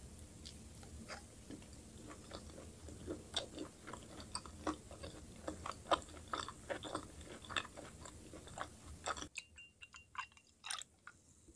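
Close-miked chewing of sticky, sauce-coated chicken: wet, irregular mouth clicks and smacks. About nine seconds in, the background hum drops away suddenly and the mouth clicks go on more sparsely.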